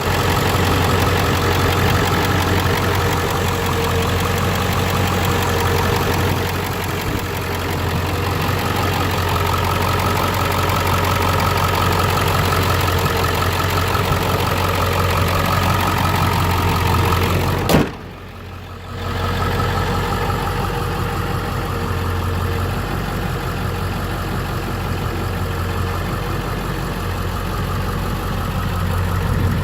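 Ford 7.3 L Powerstroke V8 turbo diesel idling steadily. A little past halfway there is a sharp click, the sound drops away for about a second, then the idle resumes.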